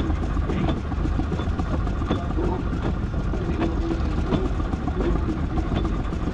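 Miniature steam traction engine crawling along in bottom gear, its exhaust beating slowly and evenly, about three beats every two seconds, over a steady low rumble.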